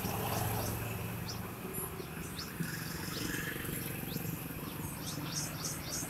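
A small bird perched on a car's side mirror gives a scattered series of short, high chirps.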